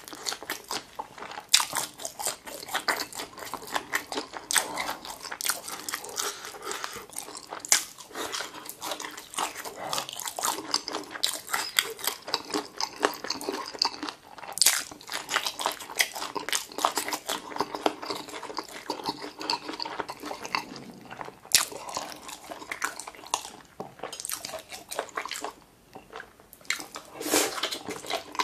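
Chewing boneless chicken feet coated in a sticky spicy sauce: a dense, irregular run of mouth smacks and clicks as the chewy pieces are worked in the mouth.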